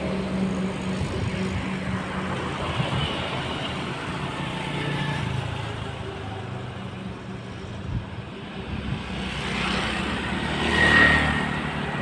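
Road traffic: a low engine rumble dies away after a vehicle passes, then another vehicle approaches and goes by near the end.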